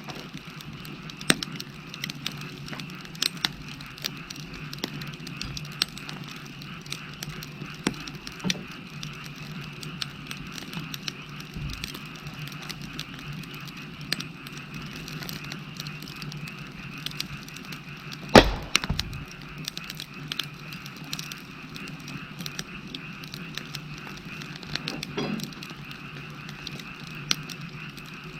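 Wood fire crackling, with sharp pops and snaps at irregular moments; one stronger pop comes about two-thirds of the way through. A steady chorus of frogs calls behind it.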